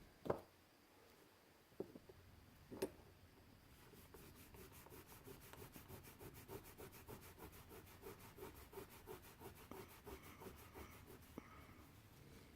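Faint rhythmic rubbing of metal polish on a brass valve, about four to five strokes a second, after a few light knocks in the first seconds.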